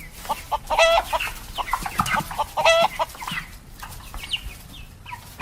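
A bird calling in a series of short calls, with two louder, longer calls, one about a second in and one near the three-second mark.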